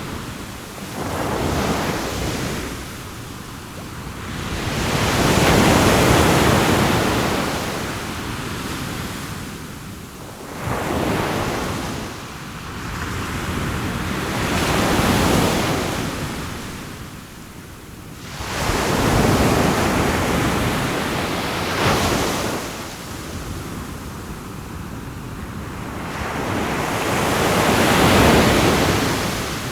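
Sea waves breaking and washing onto a shore, the surf swelling and fading in surges every few seconds.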